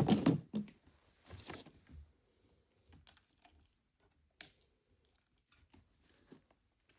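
Small plastic pieces clicking and knocking as miniature toy groceries are handled and set into a toy mini fridge. The loudest handling is in the first half second, with another bout about a second and a half in and scattered light clicks after.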